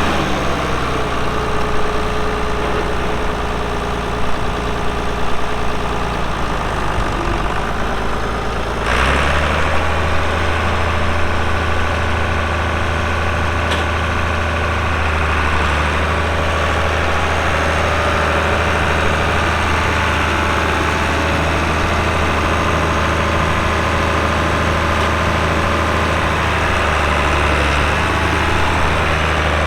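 International 686 tractor's D-312 six-cylinder diesel engine running steadily. About nine seconds in, a short sharp sound comes and the engine note steps up and gets heavier, then holds steady.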